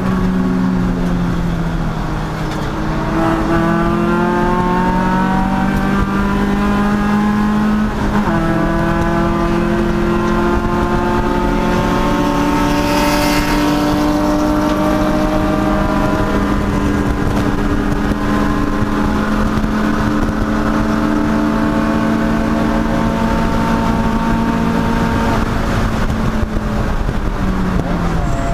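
Race car engine under load: it slows down, then revs up through the gears with a shift about a third of the way in. It pulls steadily higher for a long stretch, then backs off near the end.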